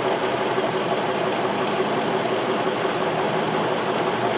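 2003 Infiniti M45's 4.5-litre V8 idling steadily; the car has an intermittent random-cylinder misfire (code P0300).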